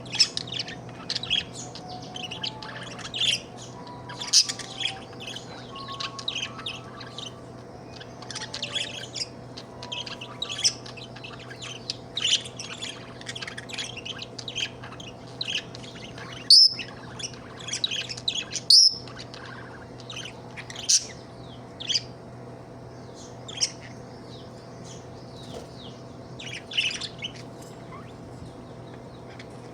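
Budgerigar chattering and warbling in a fast run of short chirps, with two louder, sharp calls a little past halfway. A steady low hum runs underneath.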